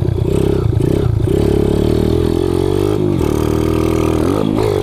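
Kawasaki KLX110 pit bike engine, bored out to 165 with an FMF exhaust, running hard under throttle. The engine note drops briefly and climbs again about three seconds in, and once more near the end.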